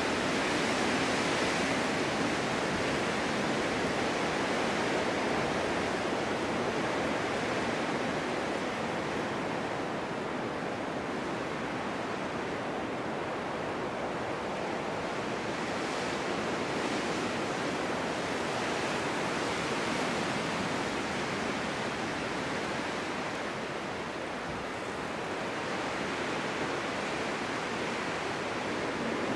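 Wind blowing steadily in gusts through open snowy ground and trees, a constant rushing hiss that swells and eases slowly, thinner in the middle and building again near the end.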